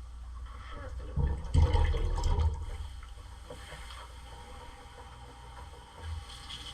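Water pouring and splashing into a soup pot, loudest and most uneven from about one to two and a half seconds in.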